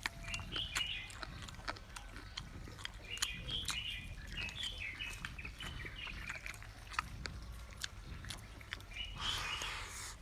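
Small birds chirping in short clusters, over scattered light clicks and chewing from someone eating, with a brief hiss about nine seconds in.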